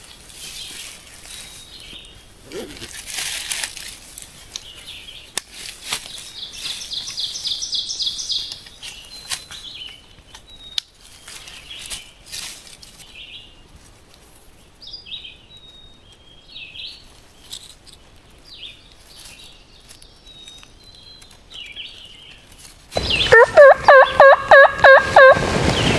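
Near the end a wild turkey gobbler gobbles loudly, a rapid rattling series of about two and a half seconds. Before it, songbirds chirp faintly, with one short high trill, and leaves rustle now and then.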